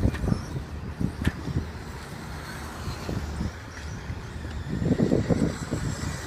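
Wind buffeting the microphone in uneven gusts over the faint high whine of electric 1/10-scale RC stadium trucks racing, with a sharp click about a second in.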